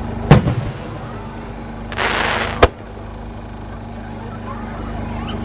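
Aerial fireworks bursting: a loud boom with a short rumbling echo, then about a second and a half later a half-second hiss that ends in a sharp crack.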